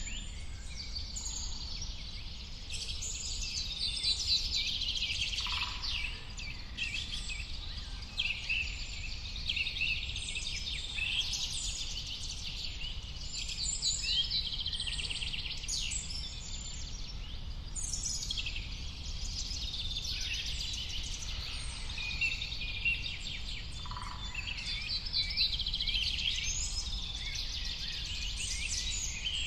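A chorus of many small birds chirping and trilling, overlapping and continuous, over a steady low rumble.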